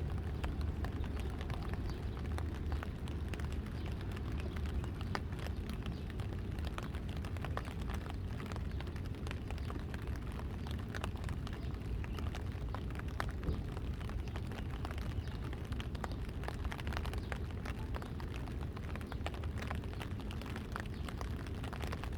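Rain falling, with many small scattered drop ticks over a steady low rumble of wind on the microphone.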